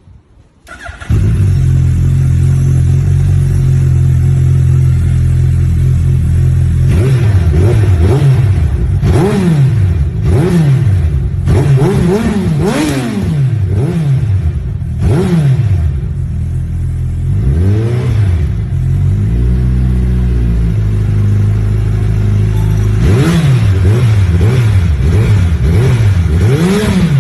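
Suzuki Hayabusa's inline-four engine through an aftermarket Yoshimura exhaust, idling loudly and then revved in a series of quick throttle blips, each rising and falling in pitch. It settles back to idle for a few seconds, then is blipped again several times near the end.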